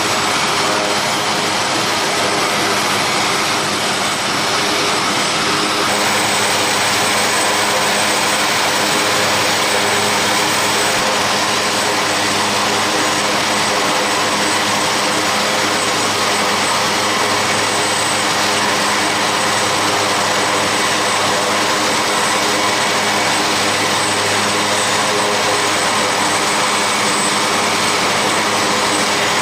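Military aircraft turbine engines running steadily and loudly, a continuous rushing noise with a fixed whine and no change in pitch.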